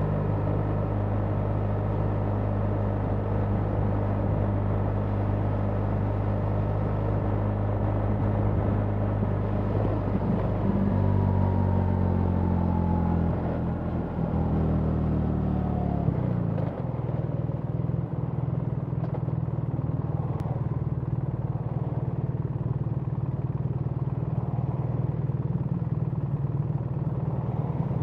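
BMW R 1300 GS boxer-twin engine running under way, with wind noise across the rider's microphone. Its pitch changes in steps a few times around the middle, then settles lower and holds steady.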